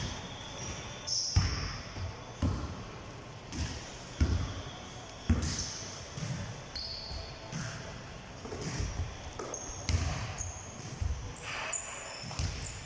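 Basketballs bouncing on a hard gym floor, irregular thuds about once or twice a second that echo around a large hall, with short high squeaks and faint voices in the background.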